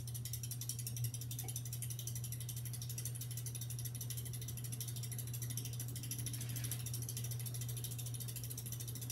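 Halsey GEV ceiling fan running on high speed: a steady motor hum with a fast, even ticking over it. It runs without a wobble.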